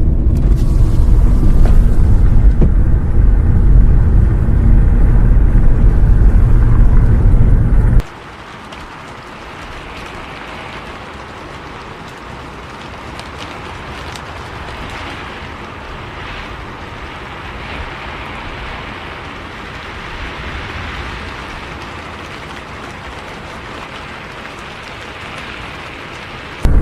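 Steady low rumble of a bus's engine and road noise from inside the cabin, which cuts off suddenly about eight seconds in. Steady rain hiss, much quieter, follows, and the loud rumble cuts back in at the very end.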